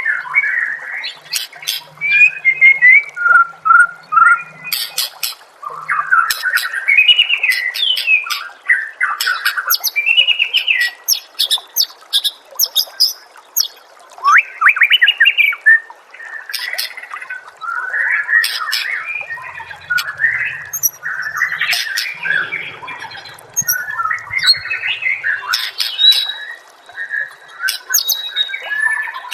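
White-rumped shama (murai batu) singing: a long run of varied phrases of rapid whistled and harsh notes, mixed with many sharp clicking 'shots', broken by short pauses.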